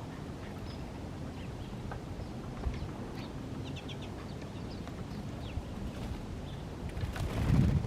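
Small birds chirping in short, scattered notes over a steady low background noise, with a louder rustling noise near the end.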